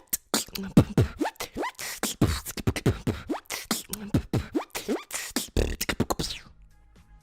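Beatboxing: a fast run of vocal kick drums, snares and hi-hat clicks mixed with falling bass-like sweeps, stopping suddenly about six and a half seconds in.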